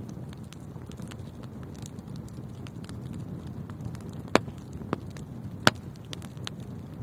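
Wood fire burning in a fireplace: a steady low rumble of flames with many small crackles, and two loud sharp pops about four and a half and five and a half seconds in.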